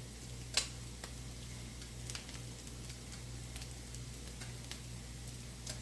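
Meatballs faintly sizzling in a frying pan over a low, steady hum, with a few light clicks of kitchen utensils, the sharpest about half a second in.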